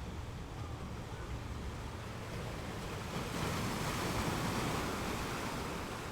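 Sea waves: a steady wash of surf, with one wave swelling louder about three seconds in and fading away near the end.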